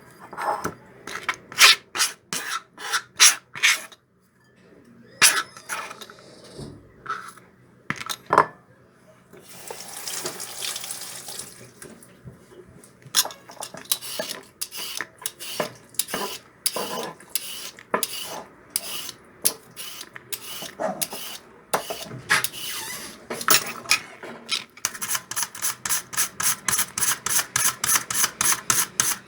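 Kitchen work with dishes and utensils: clinks and knocks, a tap running briefly about ten seconds in, then a quick, steady run of tapping clicks near the end.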